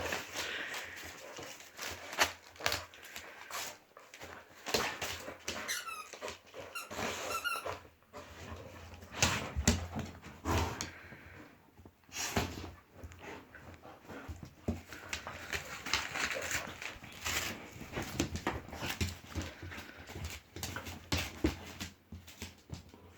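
Dog chewing and mouthing a squeaky plush toy, making it squeak again and again amid rustling and short clicks.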